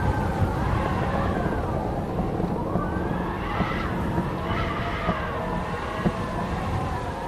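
Howling wind, several whistling tones that slowly rise and fall together over a low rumble, with a few faint knocks.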